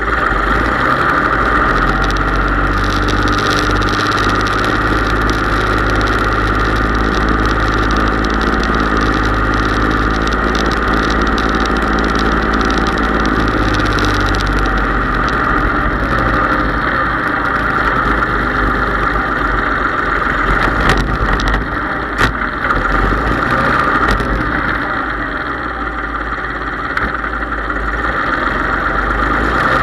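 Case IH 3220 tractor's diesel engine running steadily, with a steady high hum over the engine note. A few sharp knocks sound about two-thirds of the way through.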